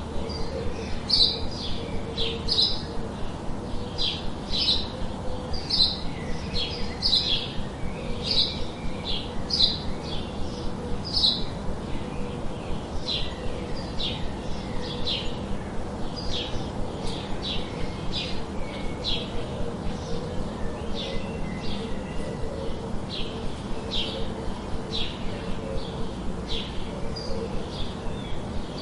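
A bird chirping over and over: short, high notes repeating at roughly one to two a second, over a steady low background hum.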